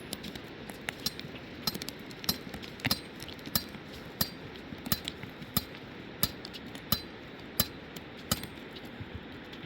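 A steady series of sharp taps or knocks, about three every two seconds, each short and clicky.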